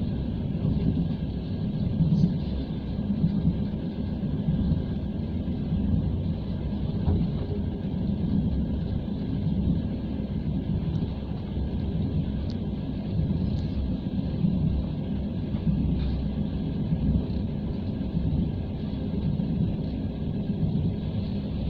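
Steady low rumble of a moving passenger train heard from inside the carriage: wheels running on the rails and the car's running noise.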